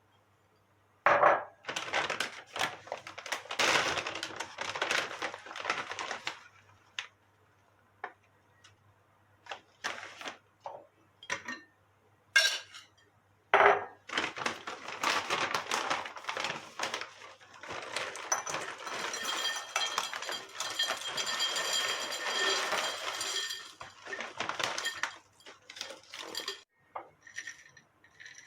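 Kitchen work sounds: dishes and utensils clinking and knocking, with two longer stretches of continuous clattering, the second with a light metallic ringing, between scattered single clinks.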